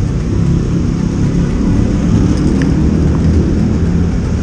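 Steady low rumble of a motorcycle engine running amid road traffic.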